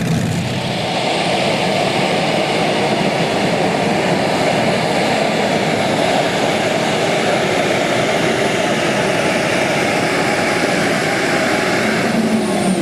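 A pulling vehicle's engine running at full power down the track, a loud steady noise with no breaks. A thin high whine starts to fall in pitch near the end.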